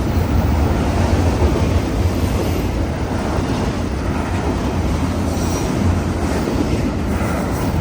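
Freight train cars rolling past on the rails, a steady rumble of wheels and cars.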